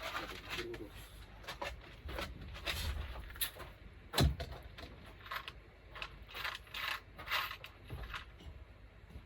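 Small parts and hardware being rummaged and handled in a cluttered container: scattered clicks and rattles, with one louder knock about four seconds in.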